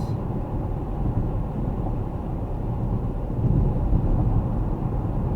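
Steady low road rumble and engine noise inside a moving car's cabin, a little louder from about three and a half seconds in.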